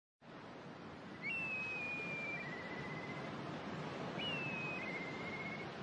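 Black kite calling twice, about a second in and again about four seconds in, over a steady background hiss. Each call is a high whistle that slides slightly down, then breaks into a lower wavering trill.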